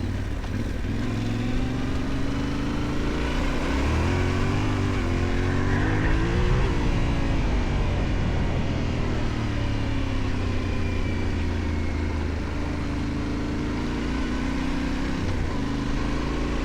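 Yamaha Ténéré 700's parallel-twin engine running under way on a ride, revving up about four seconds in and easing back down a few seconds later, then pulling steadily.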